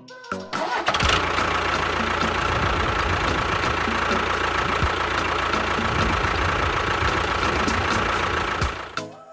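A motor starts about a second in and runs steadily with a constant whine and low rumble, then cuts off near the end.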